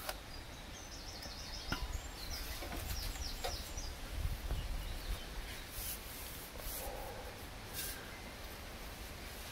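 Outdoor ambience: a small bird singing two short runs of rapid, high repeated notes in the first few seconds, over a low rumble of wind on the microphone and a few faint clicks.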